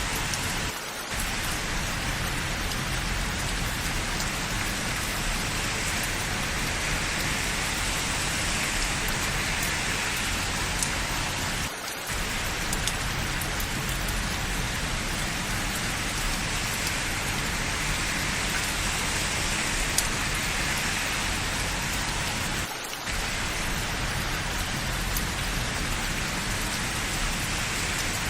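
Steady rain falling, a continuous even hiss with scattered small drop ticks. It dips briefly three times, about every eleven seconds.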